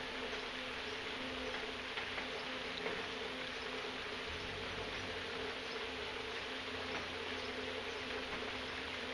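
Steady rain falling: an even hiss with faint scattered drip ticks, over a low steady hum.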